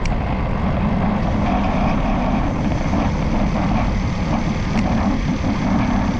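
Steady low rumble of riding noise picked up by a bicycle-mounted camera, with a few faint clicks from the rattling camera mount.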